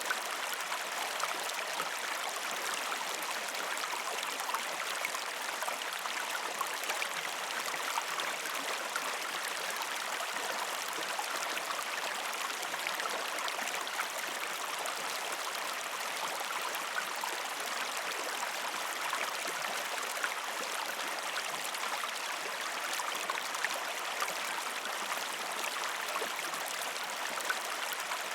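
River stream flowing over rocks: a steady rush of water with many small splashes and gurgles through it.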